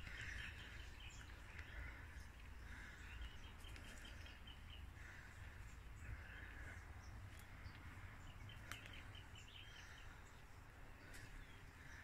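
Faint birdsong: short calls and trills from several birds, coming every second or two, over a low steady rumble.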